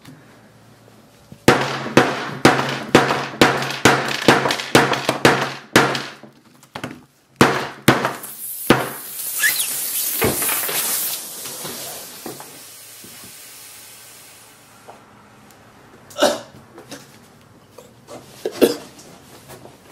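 Hammer striking a Samsung Galaxy S5 smartphone again and again, about a dozen fast blows, the glass and casing breaking. Then a loud hiss rises and fades over several seconds, typical of the punctured lithium battery venting smoke, and two more knocks come near the end.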